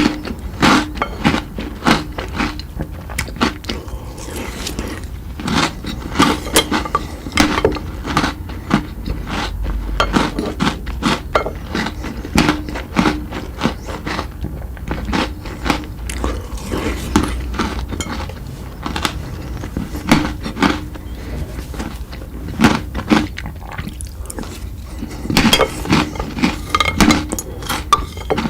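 Close-miked eating of chocolate sweets: irregular crunchy bites, chewing and mouth clicks, with occasional clinks.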